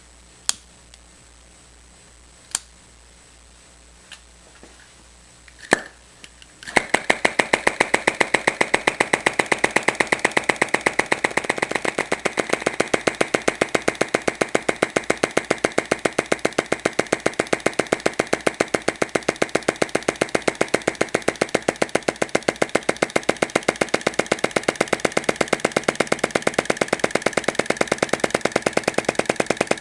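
Flame-gulping engine: a few separate clicks, then about seven seconds in it starts running with a fast, even clacking that carries on steadily.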